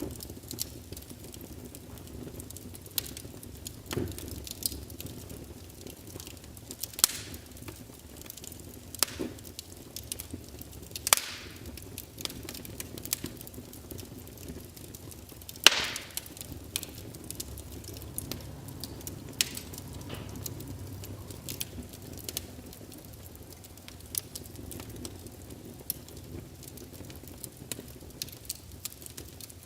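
Wood fire crackling in a fireplace: irregular sharp pops and snaps over a soft low hiss, with a louder pop about eleven seconds in and the loudest about sixteen seconds in.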